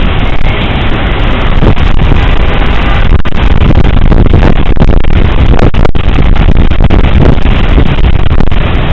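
Hurricane Katrina's wind blowing hard and without letup, buffeting the camera microphone into a loud, heavy rumble.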